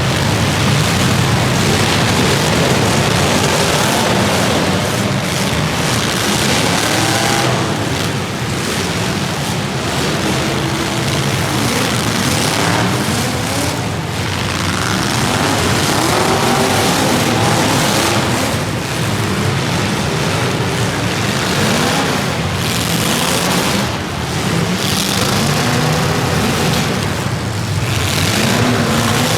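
Several racing engines running together, their pitch rising and falling as they speed up and slow down.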